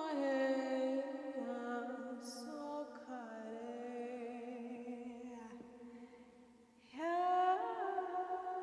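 Wordless vocal toning: a single voice sings long held tones on open vowels, sliding slowly from pitch to pitch. It fades away about six seconds in, and a new note swoops up into a held tone about seven seconds in.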